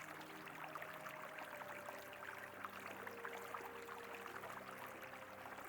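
Faint river water flowing steadily, with a fine crackle of small splashes and some faint sustained tones underneath.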